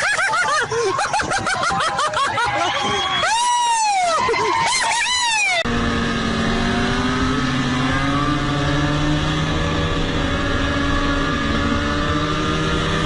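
Vehicle engines, their pitch rising and falling sharply over the first few seconds. Then a sudden change to a steady engine drone whose pitch drifts slowly.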